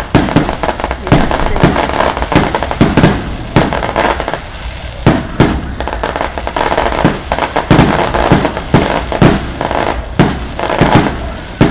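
Firecrackers going off in a rapid, irregular string of loud bangs and crackles, several sharp reports a second, with no pause.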